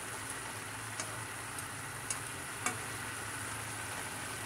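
Napa cabbage sizzling in oil in a nonstick wok as it is stir-fried, with a few light clicks of chopsticks against the pan about one, two and nearly three seconds in.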